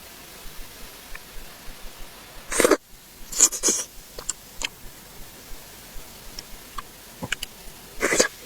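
Close-miked eating sounds of a pork-knuckle rice bowl: wet chewing clicks and mouth smacks, with three short louder noisy bursts, about two and a half seconds in, around three and a half seconds, and near the end.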